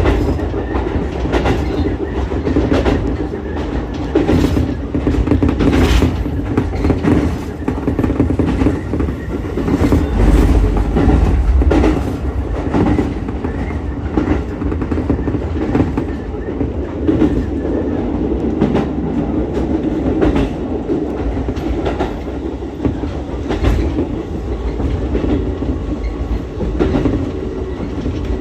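Ichibata Electric Railway 7000-series electric railcar running along the line, heard from inside the car: a steady rumble of wheels on rail with irregular clicks and clacks over rail joints.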